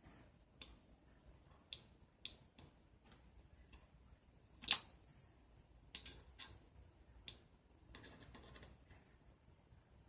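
Scattered light clicks and taps, about eight in all, the sharpest one about halfway through, over a quiet background.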